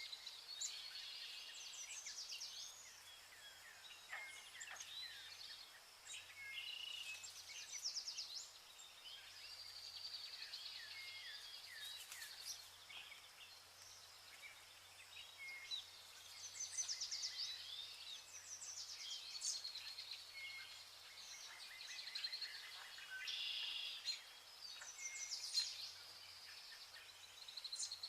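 Vernal hanging parrots calling: many short, high, thin chirps and quick chirp series, often overlapping, coming again and again.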